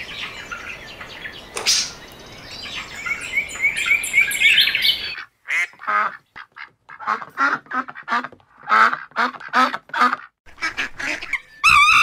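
A small bird chirping, then from about five seconds in mallard ducks quacking over and over in short, evenly repeated calls.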